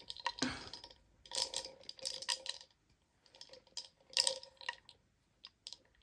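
Light clicks and taps of tiny balls being placed and rattling inside a small spice container, in several short clusters with quiet gaps between.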